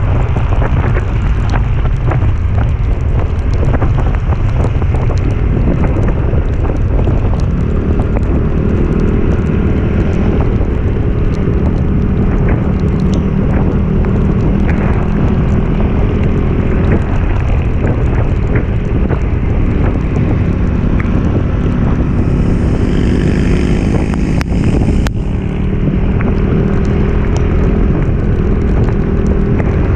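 Motorcycle engine running steadily on an uphill ride, with wind buffeting the microphone.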